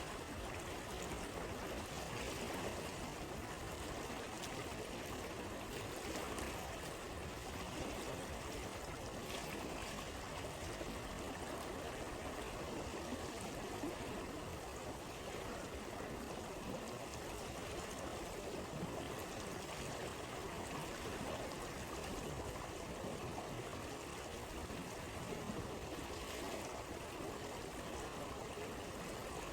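Stream water flowing and trickling, steady throughout.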